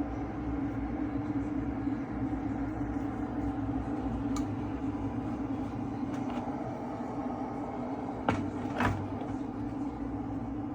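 OVENTE KG83B borosilicate glass electric kettle heating water toward the boil: a steady low rumble and hum. A few faint clicks sound partway through, and two sharper clicks come about eight seconds in.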